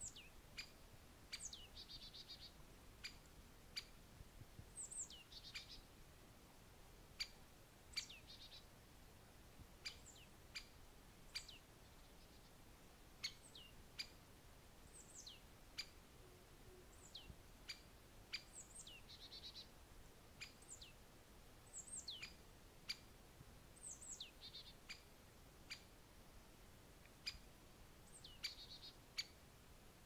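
Faint, sparse bird calls: short sharp high chirps and ticks, many sliding downward, coming irregularly about one or two a second, with a few brief twittering bursts among them.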